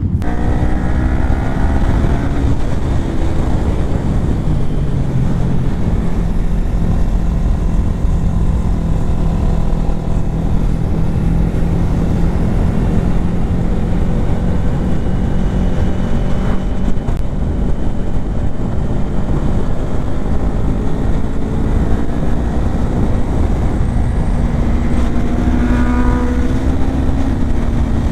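Kawasaki Ninja 400's parallel-twin engine under way with wind rushing past. The engine pitch falls over the first few seconds, holds at a steady cruise, then climbs in the last few seconds and drops again near the end.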